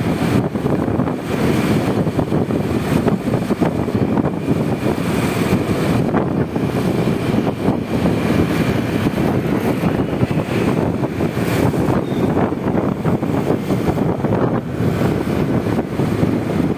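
Wind buffeting the microphone, mixed with the running engine and road noise of a Honda Vario 125 scooter under way. The noise stays steady and heavy in the low range, with no sudden events.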